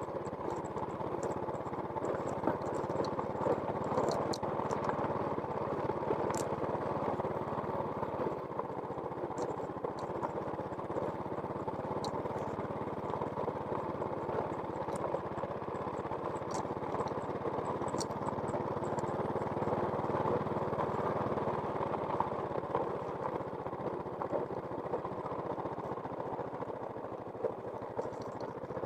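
A small engine running steadily, with a few light clicks over it.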